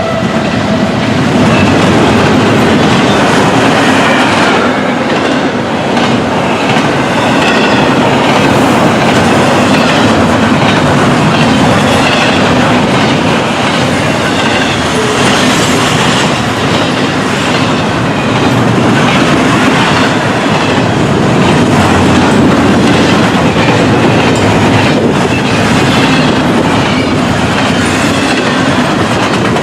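Railroad train rolling past steadily, its wheels clicking over the rail joints.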